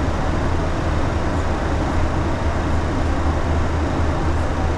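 Steady cabin noise on a Boeing 737 flight deck in flight: an even rush of airflow and engine noise over a constant low rumble.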